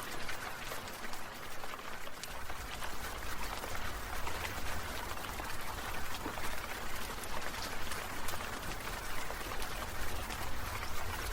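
Water sprinklers spraying, with a steady hiss and drops pattering down like rain. A low rumble joins about two seconds in.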